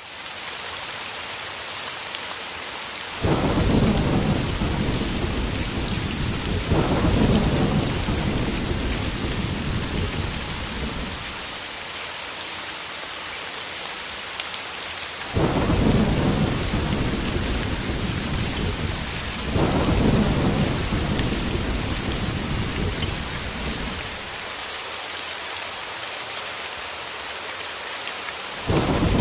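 Heavy rain falling steadily, with thunder rolling in five times: each roll starts suddenly and rumbles low for several seconds before fading, the last one breaking near the end.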